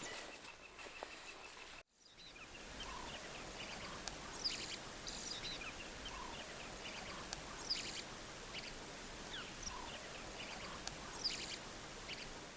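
Woodland ambience with several wild birds calling: scattered short, high chirps and a few lower notes over a steady background hiss, after a brief break in the sound about two seconds in.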